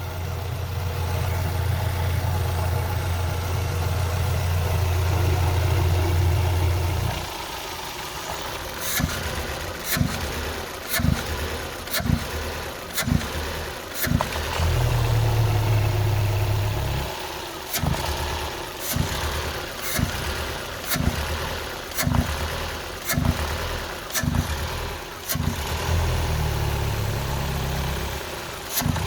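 Vauxhall Astra H's 1.6 Z16XER four-cylinder petrol engine idling steadily, then stuttering about once a second, each stutter marked by a sharp tick as the running dips and recovers. The stutter comes with the oil filler cap on and is put down to a broken vacuum (crankcase ventilation) valve in the valve cover.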